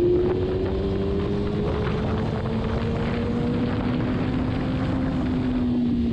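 Kawasaki Ninja ZX-6R's inline-four engine running at highway speed, its pitch slowly rising, with wind and road noise.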